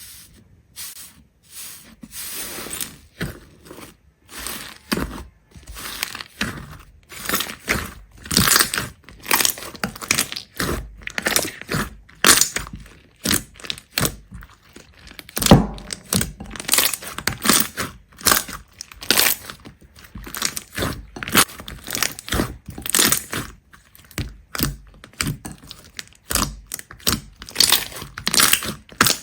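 Something crisp being crushed and broken: a long run of irregular crunches and crackles, with one loud crunch about halfway through.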